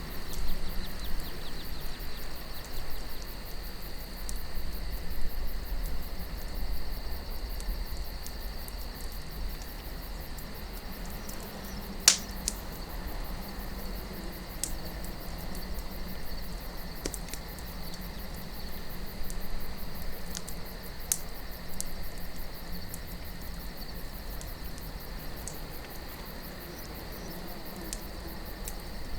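Wood campfire crackling with scattered pops, one sharp pop about twelve seconds in, over a steady high chirring of crickets and a low rumble of wind.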